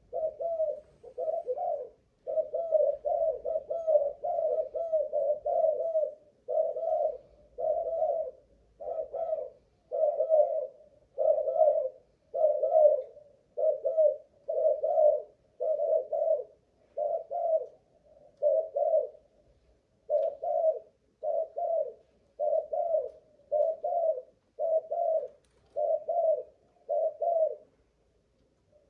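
Spotted dove of the Malaysian cu gáy strain cooing repeatedly, about one coo phrase a second in a long, nearly unbroken run with only short pauses. This is the sustained cooing stamina that keepers test in these birds.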